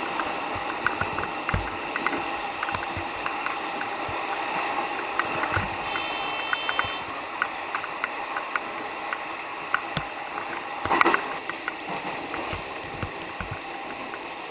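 Electric commuter train running, heard from inside the car: a steady rumble and hiss of wheels on rail with frequent irregular clicks and knocks. A brief high tone comes about six seconds in and a louder rattle near eleven seconds.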